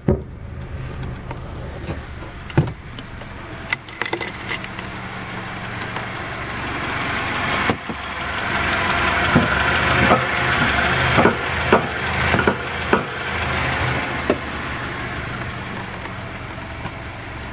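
Car running with steady engine hum and rising road noise, broken by sharp, irregular clunks, most of them bunched in the second half: a failing Raceland coilover strut clunking in the suspension.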